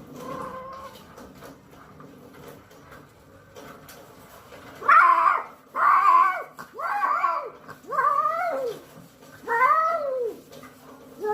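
Domestic cat yowling: after a quiet first few seconds, five loud, drawn-out calls come about a second apart, each rising and then falling in pitch.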